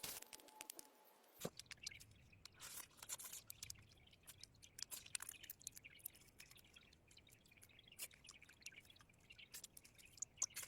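Faint, irregular small clicks and ticks over near silence, with a faint low hum starting about a second in.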